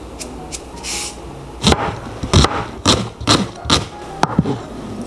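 A run of about eight irregular knocks and clatters, starting about a second and a half in, after a few faint clicks.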